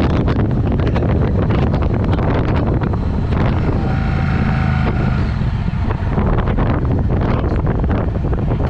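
Triumph Speed Twin's parallel-twin engine running under way through a Vance & Hines exhaust, with wind buffeting the microphone. The low engine note is steady, with rapid crackling stripes over it, and for about two seconds near the middle a few steady higher tones stand out while the crackle eases.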